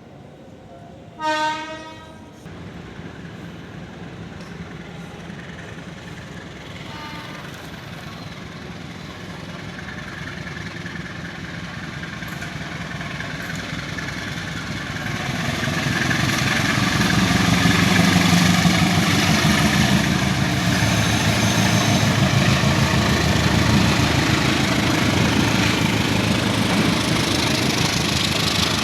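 A train horn sounds once, loud and short, near the start, with a fainter blast a few seconds later. Then the rumble of a running train grows steadily louder over about ten seconds and holds.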